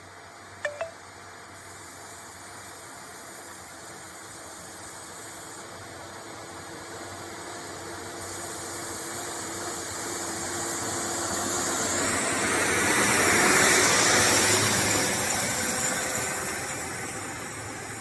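180 HP tractor working a 3-furrow reversible plough, its engine running under load: it grows steadily louder as it draws near, is loudest about three-quarters of the way through, then fades as it moves off. A brief double squeak sounds just under a second in.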